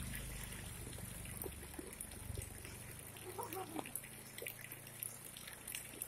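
Light rain falling onto a flooded street, with scattered drips and small splashes on the water. A low rumble fades out about three seconds in.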